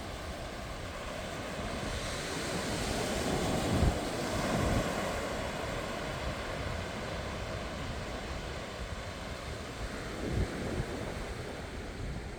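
Sea waves washing onto a beach in a continuous rush, one swell building about two seconds in and breaking around four seconds. Wind buffets the microphone in low gusts.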